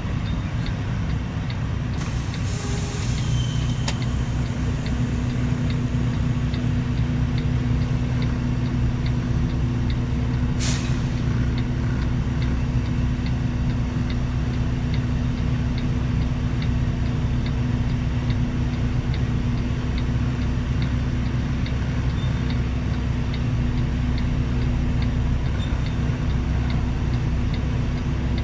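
Semi truck's diesel engine running steadily, with a hiss of air about two seconds in and a single sharp click near the middle, over faint regular ticking.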